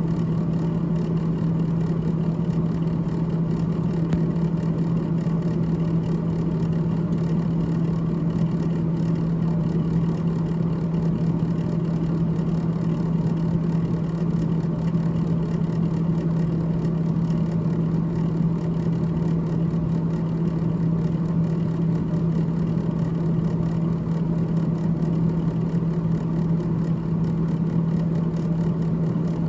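Freezer fan of a GE GTH18XCTZRBB refrigerator running, a steady low hum over a whirring rush of air.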